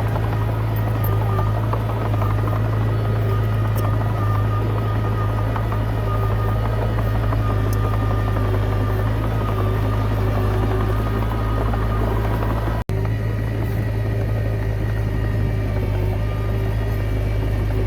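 Komatsu D20P bulldozer's diesel engine running steadily under load with a deep, even drone. It drops out for an instant about 13 seconds in.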